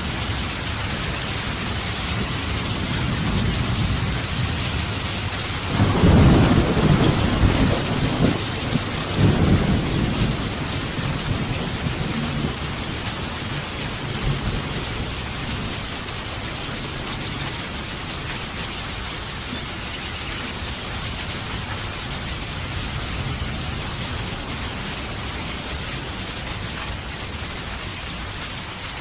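Steady heavy rain hissing, with a clap of thunder rumbling in about six seconds in and a second rumble a few seconds later before it dies away into the rain.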